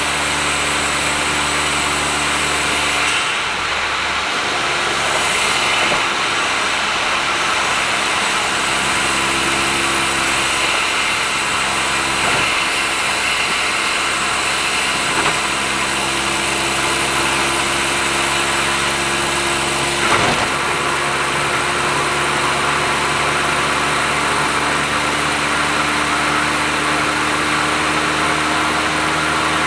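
Honda S660's small turbocharged three-cylinder engine through an HKS aftermarket exhaust, cruising steadily at expressway speed over tyre and road noise. The engine note changes about three seconds in and rises slowly near the end; a brief knock comes about two-thirds of the way through.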